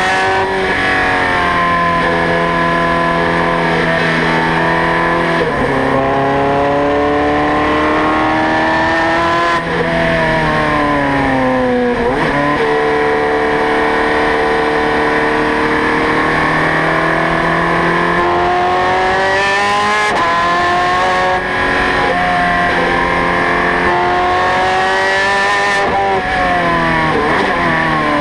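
Ferrari 430 Scuderia's V8 engine at high revs on track, its pitch climbing through the gears and falling away several times as it shifts and slows for corners.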